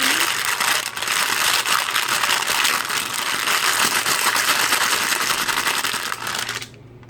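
Plastic toy packaging handled in quick, continuous rattling and crinkling, which stops abruptly shortly before the end.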